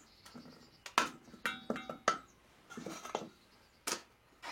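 Several short knocks and clinks of kitchenware being handled, the loudest about a second in, with a brief ringing clink around the middle.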